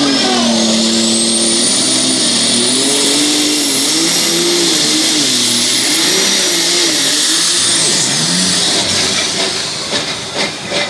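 Pulling tractor's engine running hard at full throttle, its pitch wavering, with a high whine that climbs over the first few seconds and holds. About eight seconds in the engine winds down and the whine falls away, followed by a few sharp pops near the end.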